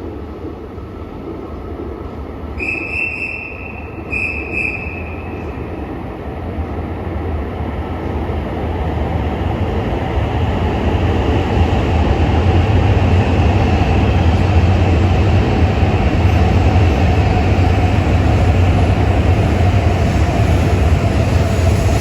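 Shinkansen train on the platform tracks, a low rumble that builds over about six seconds and then runs on steadily. Two short high-pitched tones sound a few seconds in.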